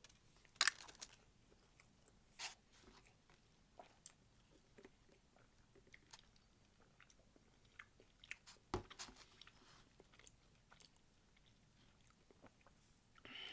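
A person eating, heard faintly close to the microphone: chewing, with soft crunches and wet mouth clicks. The sharpest crunches come about half a second in and near nine seconds.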